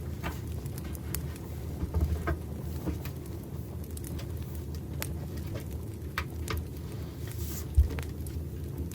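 Campfire crackling: irregular sharp pops and snaps over a steady low rumble, with one low thump near the end.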